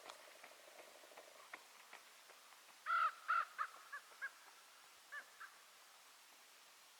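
A bird gives a series of harsh calls. Two loud ones come about three seconds in, followed by shorter, quieter ones, and a last pair comes a couple of seconds later.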